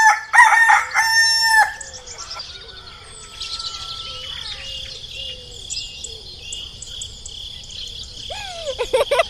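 A rooster crows loudly in the first two seconds, then small birds chirp over a steady high-pitched background, with another bird call near the end.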